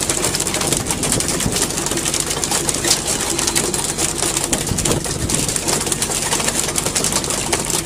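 A rapid, irregular patter of many small knocks, landed tuna beating their tails against the boat's deck and bin, over the fishing boat's engine running steadily and sea water rushing past the hull.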